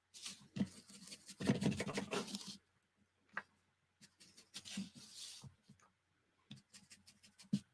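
Ink being rubbed and scrubbed onto the edges of coffee-dyed paper, in two bouts of scratchy rubbing with a few light taps between them.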